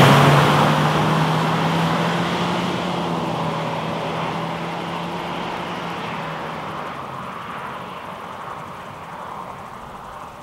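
2017 Renault Koleos's 2.5-litre four-cylinder petrol engine accelerating away just after passing close by, its note held at one steady pitch by the CVT. It fades steadily into the distance and is nearly gone about two-thirds of the way through.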